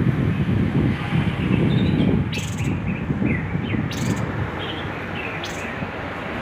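Tepus kepala hitam babbler giving short, scattered chirps over a loud, steady low rumble, with a few brief hissy bursts.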